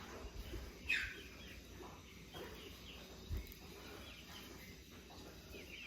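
Quiet barn background with faint bird chirps, one louder chirp falling in pitch about a second in, and a soft dull knock a little after three seconds.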